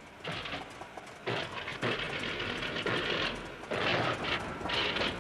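Tiger Moth biplane's rough emergency landing in a field: about five rough, rattling crashing bursts as it bumps and skids across the ground, its engine dead.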